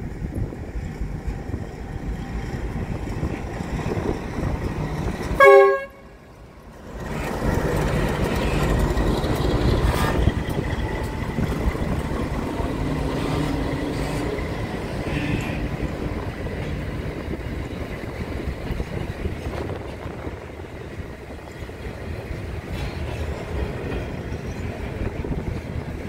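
Freight train sounds one short horn blast about five seconds in, then passes close by with a steady rumble from its wagons.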